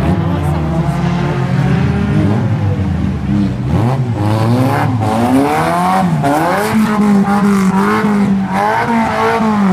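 Engines of several banger racing cars running together on track. From about four seconds in, they are revved up and down repeatedly, the pitch rising and falling as they accelerate and lift off.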